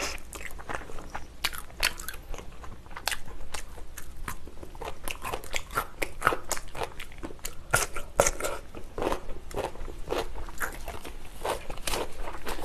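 Close-miked eating sounds: fried chicken and then radish kimchi being bitten and chewed, with many sharp crunches at uneven intervals.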